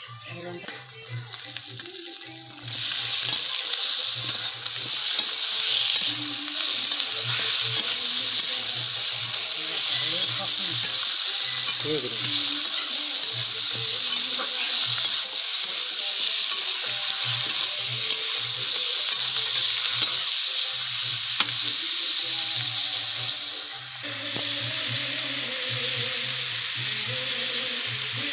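Chicken pieces frying with onions in hot oil in a wok, sizzling loudly while being stirred. The sizzle starts suddenly about three seconds in.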